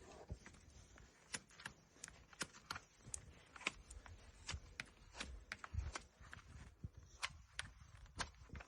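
Hoof trimming on a horse's hoof: a steady run of sharp, irregular clicks and snips, about two to three a second, with a few low thumps.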